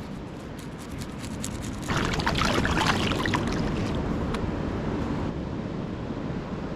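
Ocean waves washing against rocks, with a bigger wave surging in about two seconds in and draining away over the next few seconds.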